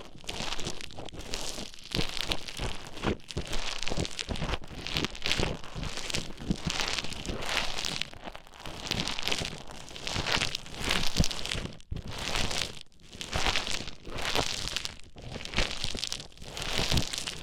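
Play Foam being squished and mixed close to the microphone: crackly, crinkling squelches that swell and fade in repeated strokes about once a second.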